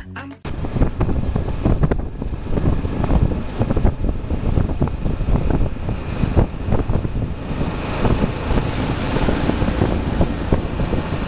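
A road vehicle driving over a rough road: a steady rumble with irregular knocks and jolts.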